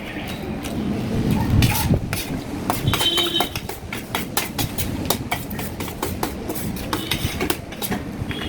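Eating sounds at a meal of roll and chowmein: utensils clicking and clinking against a plate many times, over a low rumble.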